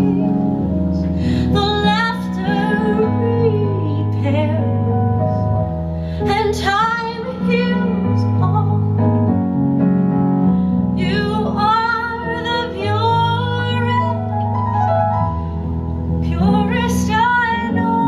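A woman singing held, wavering notes in phrases of a few seconds over sustained keyboard chords.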